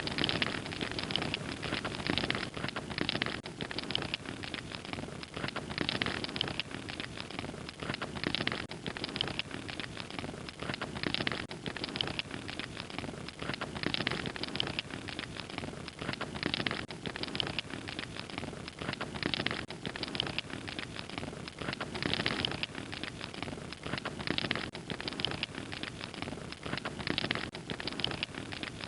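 Wood fire crackling: a dense stream of small pops and snaps over a steady hiss, swelling and easing every couple of seconds.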